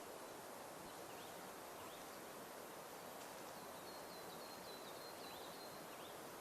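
Quiet forest ambience: a steady soft hiss with faint, high bird chirps about once a second and a quick run of short notes about four seconds in.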